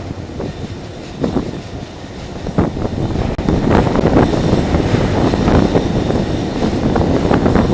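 Fairground ghost train car rattling and clattering along its track, with sharp knocks; the racket grows louder about three and a half seconds in.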